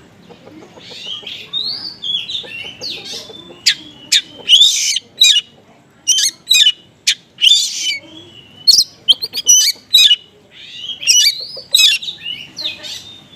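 Oriental magpie-robin (kacer) singing a loud, fast, irregular run of sharp chirps and short whistled glides, mixing in calls copied from small birds.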